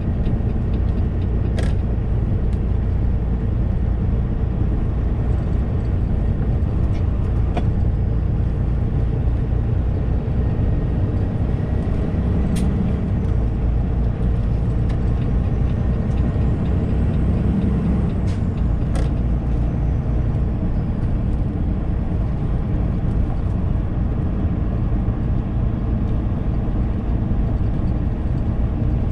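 Semi truck driving, heard inside the cab: a steady low rumble of engine and road noise, with a few sharp clicks or rattles now and then.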